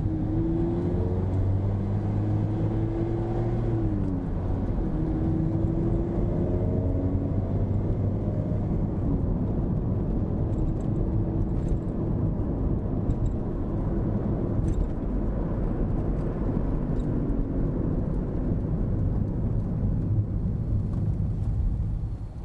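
Mazda ND MX-5 Miata with an aftermarket AIMGAIN valved exhaust, engine running while the car is driven. The engine note climbs and drops twice in the first several seconds, like shifts up through the gears, then settles into a steady drone with low road rumble.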